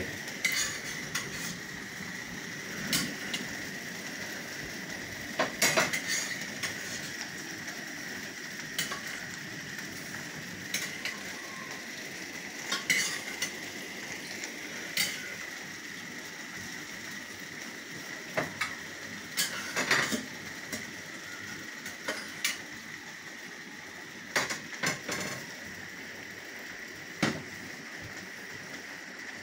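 Heavy rain hissing steadily, with irregular sharp clinks of drops striking a hard surface close by, every second or two.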